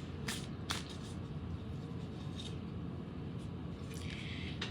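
Oracle cards being handled: two light clicks shortly after the start, fainter ticks later, and a brief soft rustle near the end, over a steady low room hum.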